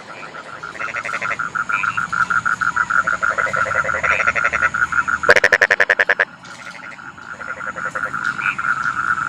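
Chorus of rice-field frogs calling in rapid pulsed trills, several voices overlapping, with one loud close call about five seconds in lasting about a second. A faint steady high whine runs underneath.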